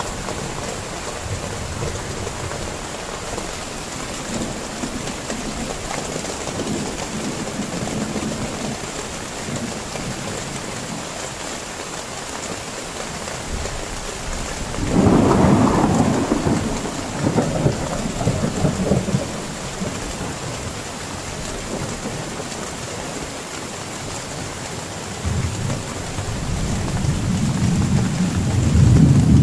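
Heavy rain falling steadily, with a loud clap of thunder about halfway through that rolls on for a few seconds, and more thunder rumbling up near the end.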